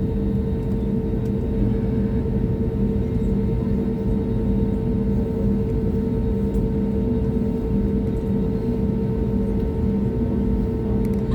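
Airbus A320 cabin noise in flight: a steady low rumble of engines and airflow with a constant hum and no changes.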